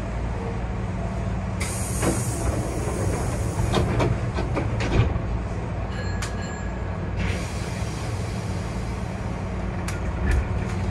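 Hankyu 8000 series electric train running, heard from the driver's cab: a steady low hum under running noise, with several sharp clacks of the wheels over rail joints and two spells of hiss.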